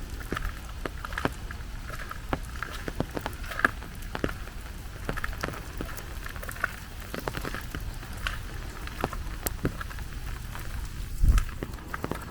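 Rain falling steadily, with many irregular sharp drop ticks over a low rumble and hiss. A single louder low thump comes about eleven seconds in.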